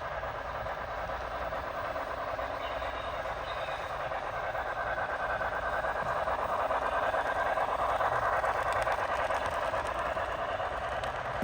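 HO scale model passenger train running along the track, a steady rolling rush that grows louder to a peak about eight seconds in and then eases off.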